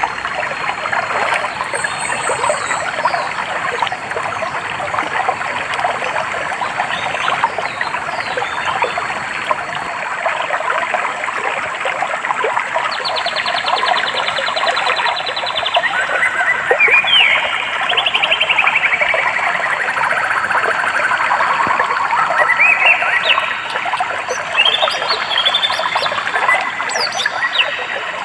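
Stream water trickling and splashing steadily. From about halfway through, a songbird sings repeated phrases of fast trills and stepped rising and falling notes.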